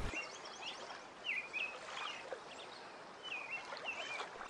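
Small birds chirping: repeated short, quick sweeping chirps at irregular intervals over a light background hiss.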